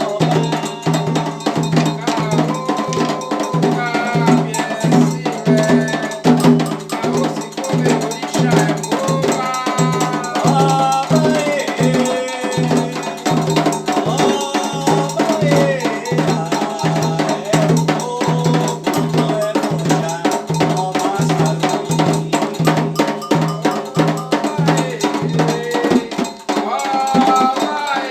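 Candomblé ritual music: voices singing over drums and a ringing metal bell. The low drum pulse beats about twice a second and drops out near the end while the singing goes on.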